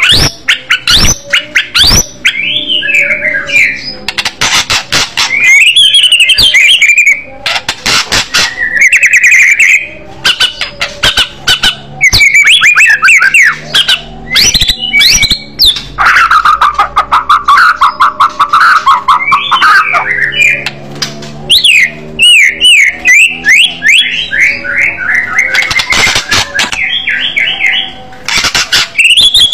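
White-rumped shama singing loudly in an aggressive fighting style: a fast, varied stream of whistled glides, rapid sharp clicking notes and chattering phrases, with a longer, lower warbling phrase about halfway through.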